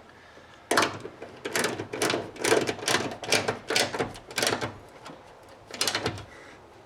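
Hand ratchet wrench tightening door hinge bolts: a series of short ratcheting strokes about every half second, with a brief pause before the last couple.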